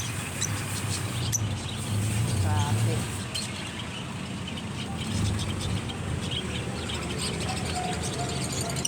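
Birds chirping in short calls, about two and a half seconds in and again near the end, over a steady low background of indistinct voices and hum.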